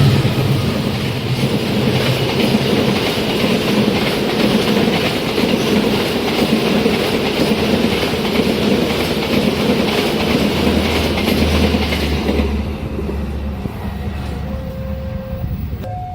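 A train running past at speed on jointed track: a loud, steady rumble of wheels on the rails with clickety-clack, easing off about twelve seconds in. Near the end, a steady pair of alternating tones starts up.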